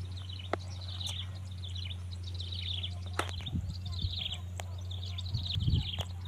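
Birds chirping in repeated short descending phrases over a steady low hum, with a few sharp clicks and some low knocks near the end.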